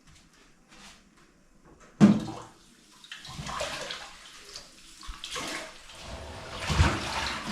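A sudden knock about two seconds in, then water running and splashing into a sink or container, swelling near the end.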